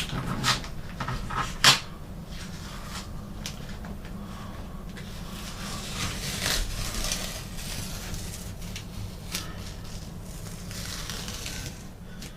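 Masking tape being peeled away from a fresh silicone bead and crumpled, an irregular soft tearing and rustling, with a couple of sharp knocks in the first two seconds.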